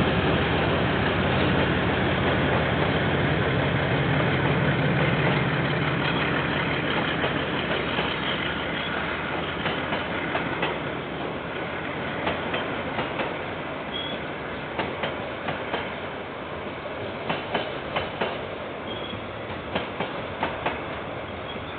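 KiwiRail train passing: a diesel locomotive's engine is loud at first and fades over the first several seconds. The wagons then roll by, their wheels clacking over rail joints, often in pairs, more and more through the second half. Heard through a security camera microphone.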